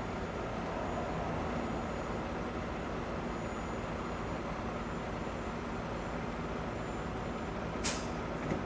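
Heavy diesel truck engine running steadily. Near the end comes a short, sharp burst of air hiss, like an air brake or air valve venting, then a smaller one.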